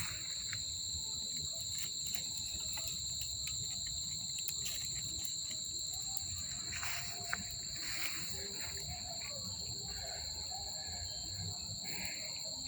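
Crickets chirring steadily at two high pitches over a low background rumble, with a few faint clicks.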